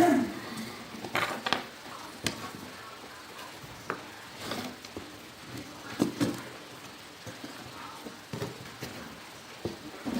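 Irregular small clicks, knocks and rustles of wires and small parts being handled while a light dimmer circuit is wired up, with a sharper knock about six seconds in.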